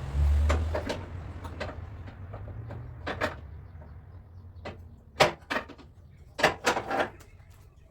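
Irregular knocks and clatters of hand tools and parts being handled on car body panels, the loudest about five seconds in and a quick cluster between six and seven seconds, over a low rumble that is strongest at the start.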